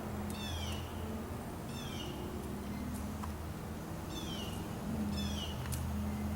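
A flock of small birds calling: short chirps that slide downward in pitch, repeated every second or so, over a steady low hum.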